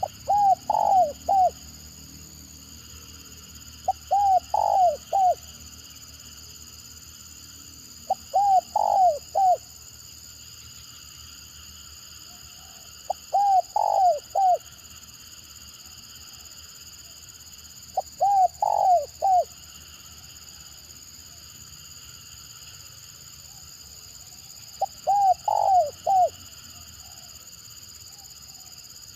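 Spotted dove (tekukur) cooing: six phrases of three or four quick coos each, repeated about every four to five seconds, in the broken 'stuttering' call used to lure other doves. A steady high background drone runs underneath.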